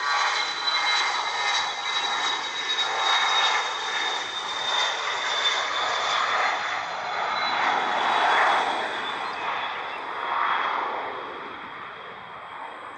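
Business jet's turbofan engines running as the aircraft goes by, a steady high-pitched whine over a broad rushing noise, drifting slightly lower in pitch and fading away near the end.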